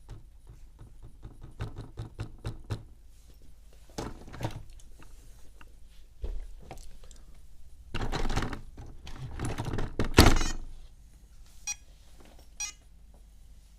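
Handling sounds of an ILIFE V7 robot vacuum that has died with a flat battery: a quick run of plastic clicks as its button is pressed with no response, then bumps and knocks as it is picked up and set down on its charging dock, loudest about ten seconds in. Two short chirps follow near the end.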